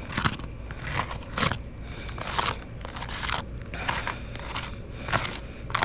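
Asphalt roof shingles being handled, giving irregular crunching and scraping strokes about twice a second.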